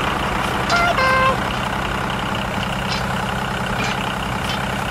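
Vehicle engine running steadily, like a truck at low speed, with two short horn toots about a second in, the second lower and a little longer.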